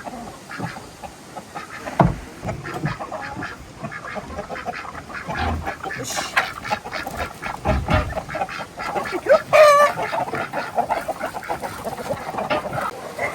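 Domestic waterfowl calling in a flock: a dense run of short calls, with one louder, wavering call about ten seconds in. A thump comes about two seconds in.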